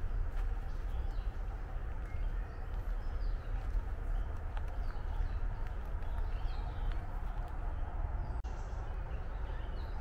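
Woodland birds giving faint, scattered short chirps and calls over a steady low rumble and hiss.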